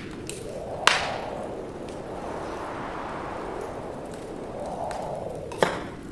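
Wood fire burning in a fireplace, with two sharp crackling pops, one about a second in and one near the end, and a few faint ticks over a steady rush of wind that swells and fades.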